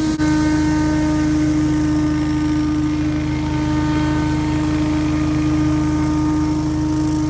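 Scag Windstorm stand-on leaf blower running steadily: engine and fan make a constant droning tone over a rush of air, with a brief break just after the start.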